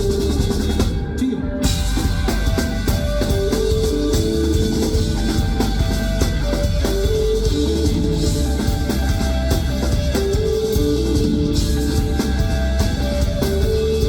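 Live rock band playing an instrumental passage without vocals: drum kit keeping a steady beat under guitar and bass.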